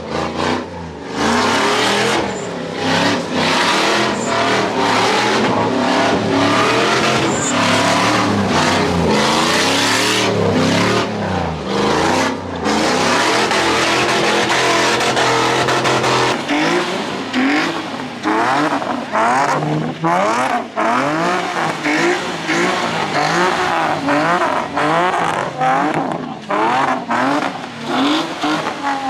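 Car engines revving hard with tire squeal, as cars spin their wheels at a street takeover. The engine pitch climbs and falls again and again, and the swings come faster about halfway through.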